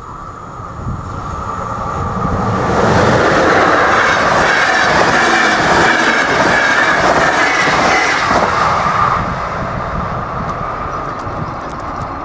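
Passenger train passing over a level crossing at speed, with wheels clattering on the rails. It builds over the first few seconds, stays loudest for about six seconds, then fades. The crossing's electronic warning bell rings steadily underneath.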